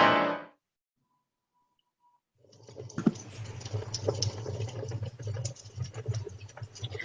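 A fire sound effect for a radio play: dense crackling and snapping over a low rumble, starting about two and a half seconds in after a short silence. Just before it, a brief chord-like sound, probably a music sting, cuts off in the first half second.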